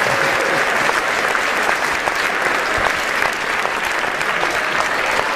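Large audience applauding steadily, a dense even patter of many hands clapping.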